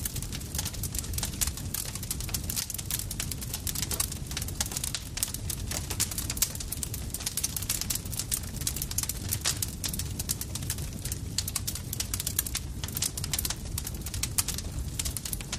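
Campfire burning with dense, irregular crackling and popping of wood over a steady low rumble of flame.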